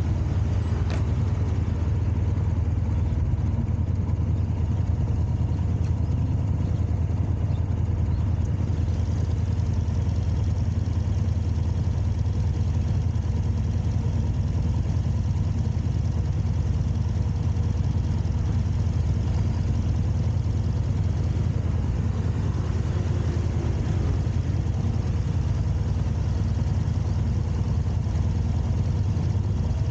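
A car running, with engine and road noise making a steady low rumble that stays even throughout.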